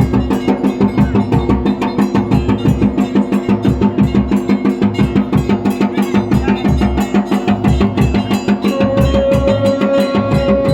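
Folk drums beating a fast, even rhythm over a steady droning tone, with a higher held note coming in near the end.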